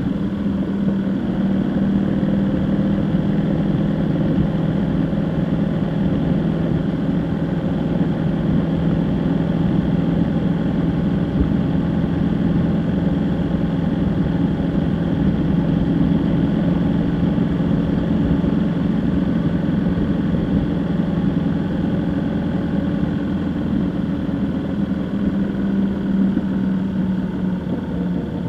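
Car engine and road noise while driving: a steady hum that shifts only slightly in pitch.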